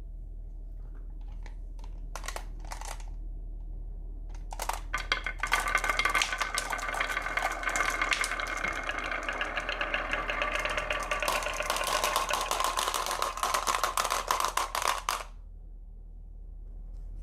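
Glass marbles rolling and clattering down a wooden HABA marble-run slope: a few single clicks, then about four seconds in a dense, rapid rattle with a ringing tone that runs for about ten seconds and stops suddenly.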